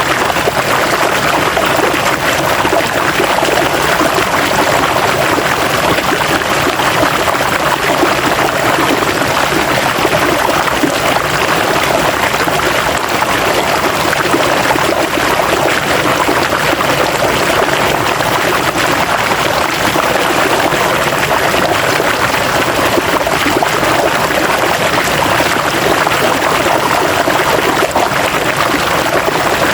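River water flowing over stones, a steady rushing and babbling that does not let up.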